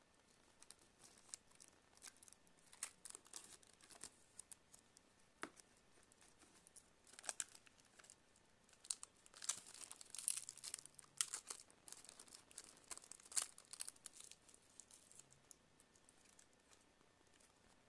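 Faint handling noises from a tablet being taken apart by hand: scattered small clicks, scrapes and crinkling, busiest in the middle of the stretch.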